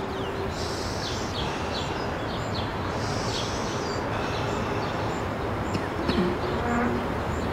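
Birds chirping in short, high calls over a steady background hiss.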